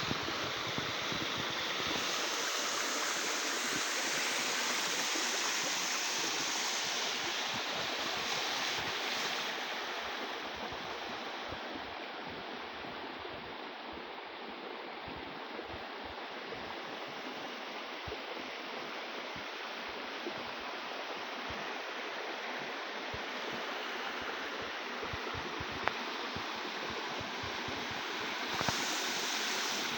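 Running water, a steady rush like a stream flowing, with an irregular low gurgle beneath it; the rush gets a little softer and duller about ten seconds in.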